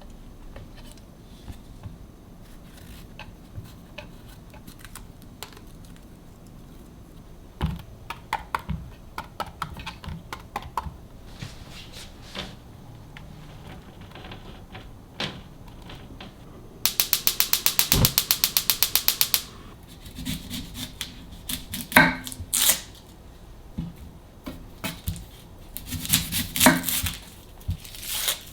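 Kitchen handling sounds: scattered clicks and knocks of containers and utensils being moved, with a fast run of ratchet-like ticks lasting about two and a half seconds about two thirds of the way through.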